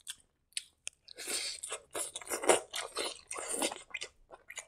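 Close-miked wet chewing and lip smacking of a mouthful of rice and egg curry. A few sharp mouth clicks in the first second, then steady chewing for about three seconds.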